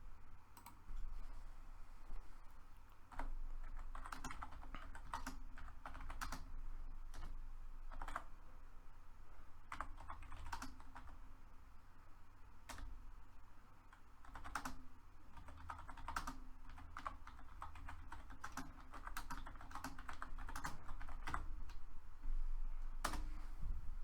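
Typing on a computer keyboard: uneven runs of key clicks with short pauses between them, over a faint steady hum.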